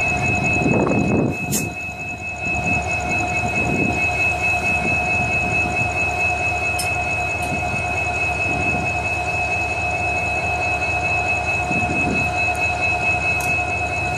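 A locomotive-hauled passenger train approaching along the track from a distance, heard as a low rumble that swells now and then. A steady high-pitched whine holds over it throughout.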